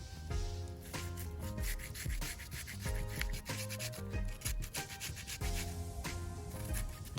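Vegetables being grated by hand: a rapid run of short rasping strokes, densest in the middle, over background music.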